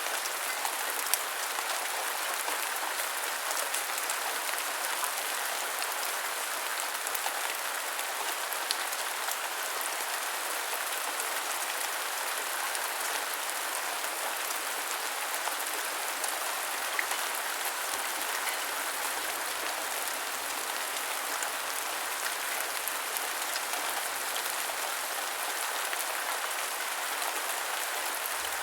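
Heavy rain falling steadily, a continuous hiss with scattered sharper drop ticks.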